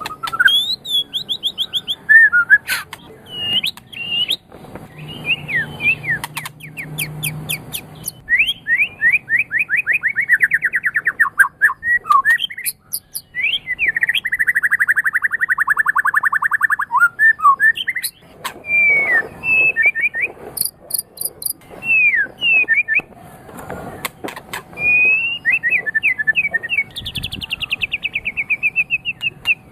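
White-rumped shama (murai batu) singing a varied song: fast trills of rapidly repeated notes alternating with sweeping whistled phrases, broken by short pauses.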